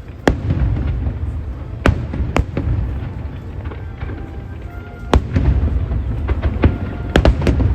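Aerial fireworks shells bursting: about six sharp bangs, two of them close together near the end, over a continuous deep rumble of further bursts. Music plays faintly underneath.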